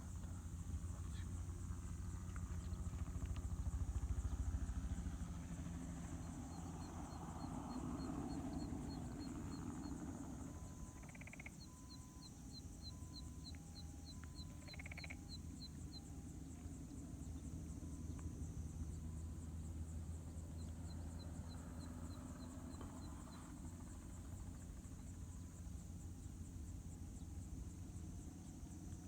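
Crop-spraying helicopter's engine and rotor running at a distance, a low rumble with fast pulsing that swells a few seconds in and again around eight seconds. Insects buzz steadily throughout, and short trains of rapid high chirps come from small animals or birds.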